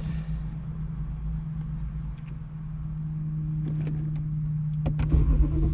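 BMW E93 M3's V8 idling steadily while it warms up, a constant low hum over a rumble. A couple of faint clicks come near the end.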